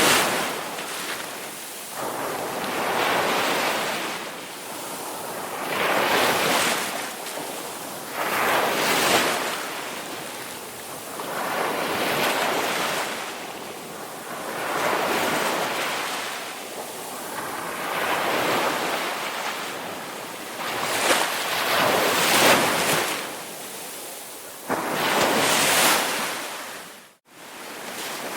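Ocean waves breaking and washing in, a rushing surge that swells and falls about every three seconds. Near the end the sound cuts out abruptly for a split second, then resumes.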